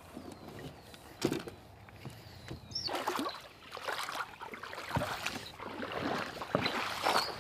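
Irregular knocks and water sloshing around a kayak, with a few sharper knocks against the hull.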